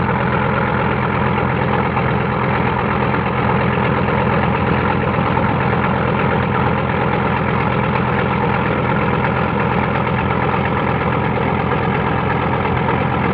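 A boat engine running steadily at an unchanging speed, a low even drone with no revving.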